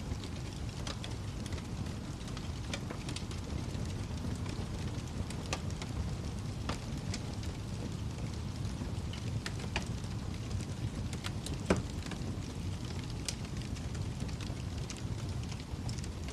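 Wood fire crackling in a fireplace: a low steady rumble of burning with scattered sharp snaps and pops, one louder pop about twelve seconds in.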